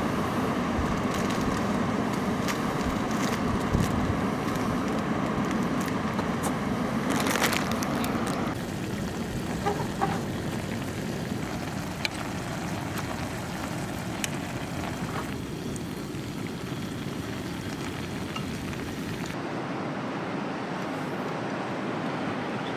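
Fish frying in hot oil in a pan: a steady sizzle with scattered sharp crackles and pops.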